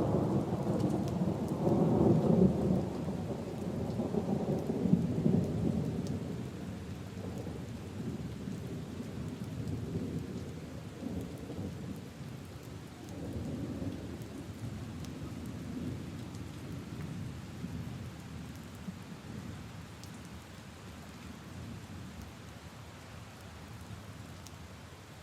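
A long roll of thunder, loudest in the first few seconds and slowly dying away, over steady rain falling on puddles and leaves.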